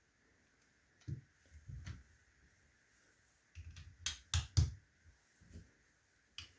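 Hard plastic clicking and knocking as small plastic building-brick monster truck toys are handled and set down, with a quick cluster of three sharp clicks about four seconds in.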